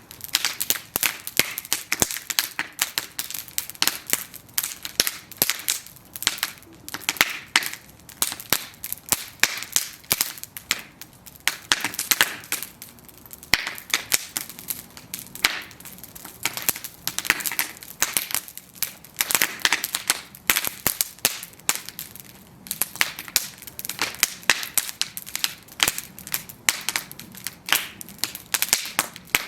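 Bonfire of burning wooden planks crackling, with dense, irregular sharp pops and snaps as the wood burns.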